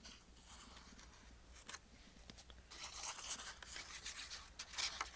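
Paper being handled at a craft table: faint rustling and scratching with scattered small clicks, busier in the second half.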